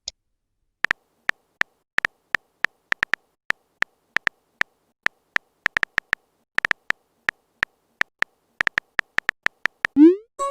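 Phone keyboard typing sound effect: short, sharp taps at an uneven typing pace, about two to four a second, then a quick rising swoosh near the end, as a message is sent.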